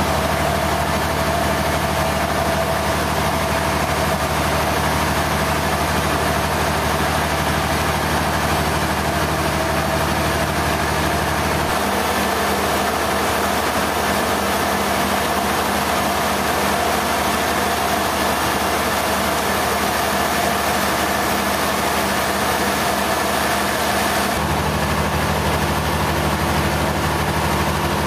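Sawmill machinery running steadily with a constant engine hum. The lowest part of the hum drops out about twelve seconds in and comes back about twenty-four seconds in.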